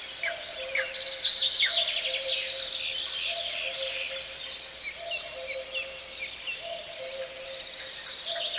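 A dense chorus of small songbirds chirping and trilling, with a low two-note call repeating steadily about every second and a half.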